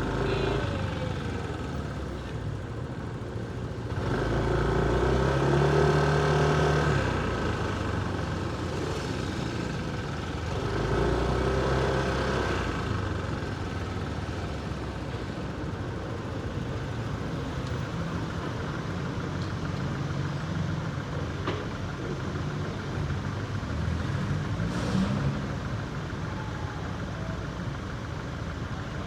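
Motorcycle engine running through city street traffic, picking up speed twice with the engine note rising and getting louder, then easing off, over a steady background of traffic noise.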